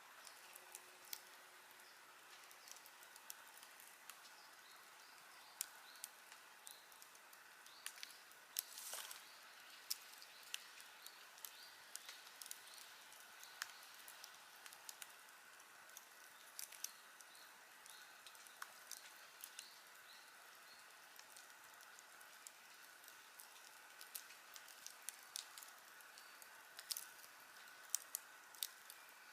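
Wood campfire crackling: irregular sharp pops and snaps of burning wood, with a brief denser flurry of crackles about nine seconds in.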